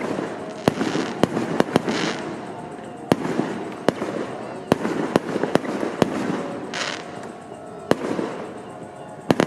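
Fireworks going off in quick, irregular succession: more than a dozen sharp bangs, each ringing out briefly, with a short hissing burst about two seconds in and again near seven seconds.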